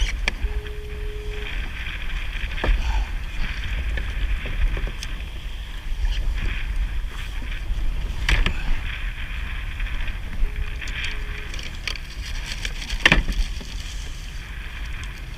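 Wind rumbling on the microphone and water splashing around a kayak, with three sharp knocks spread through and, twice, a short steady tone lasting about a second.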